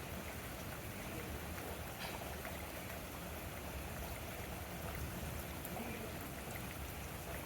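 Steady rain falling in a thunderstorm: an even hiss with a few faint drop ticks.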